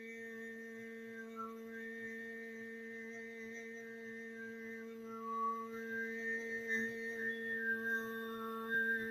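A voice toning one long, quiet, steady hum, with faint whistle-like overtones stepping between pitches above it.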